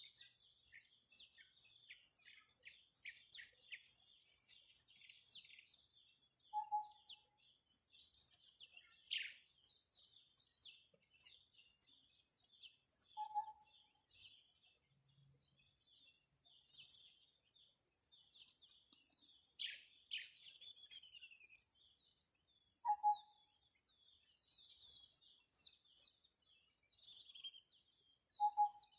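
Several birds chirping and singing together in quick, overlapping high notes, with a rapid run of regular chirps at the start. A short, lower single call comes four times, about every six seconds.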